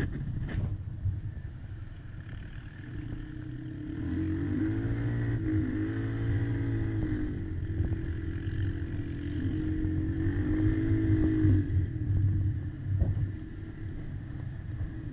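Quad bike engine, a Kymco Maxxer 300, running and revving. Its pitch rises and falls in waves from about four seconds in until near the end, and it runs quieter and steadier before and after. A couple of knocks come right at the start.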